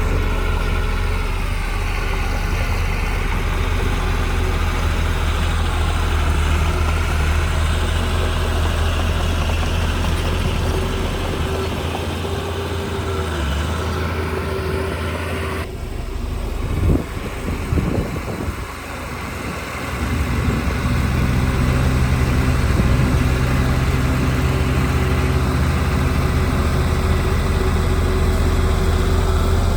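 Heavy diesel engine of earthmoving equipment running steadily, with a short run of knocks or clanks a little past halfway.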